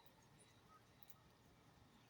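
Near silence: faint background tone with a few faint, short, high-pitched ticks.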